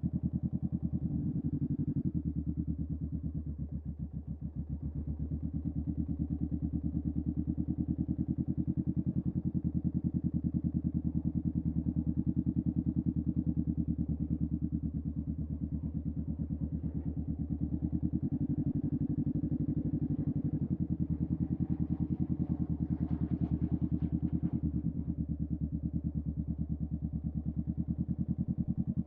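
2023 Honda Rebel 500 SE's parallel-twin engine running through a Vance and Hines upsweep aftermarket exhaust, a steady rapid pulsing exhaust note that dips briefly about four seconds in.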